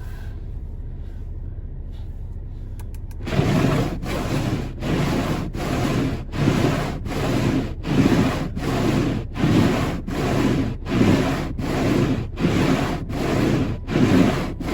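Snow being swept or scraped off a car's windshield in even back-and-forth strokes, about two a second, starting about three seconds in over a steady low hum.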